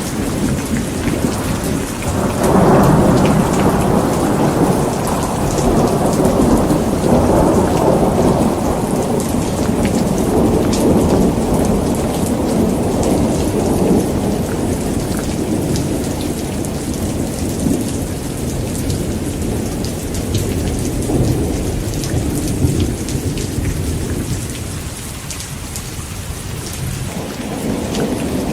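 Heavy rain pouring steadily with a patter of drops, under a long rolling rumble of thunder that swells about two seconds in and slowly fades away over some twenty seconds; another rumble begins to build near the end.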